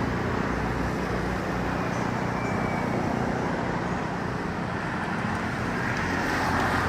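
Steady road traffic noise: vehicles running past with a continuous low engine hum.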